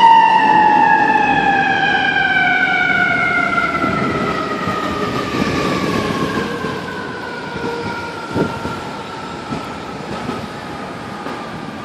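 Fire engine's mechanical siren winding down, its wail falling slowly and steadily in pitch and fading as the truck moves away, over the rumble of the truck on the road. A short knock sounds about eight seconds in.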